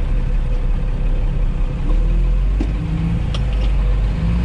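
Ford L9000 dump truck's diesel engine running steadily with a deep rumble while driving, with a couple of short clicks about three seconds in.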